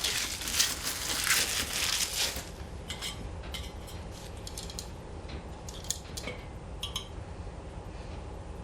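Protective vinyl film being peeled off the steel plates of a fire pit: a crackling rip for the first couple of seconds, then scattered light metallic clinks and ticks as the plates are handled.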